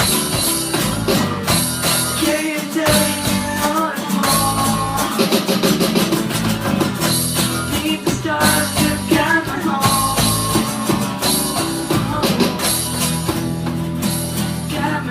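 Small rock band playing a song live: drum kit with cymbals and guitar, with singing.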